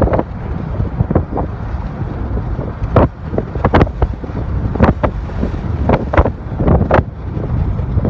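Wind buffeting the microphone: a constant low rumble broken by irregular loud gusty blasts.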